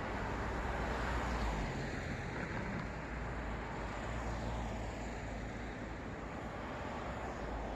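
City road traffic: a steady hiss of tyres and engines from passing cars, with a vehicle swishing past about two seconds in and another about five seconds in.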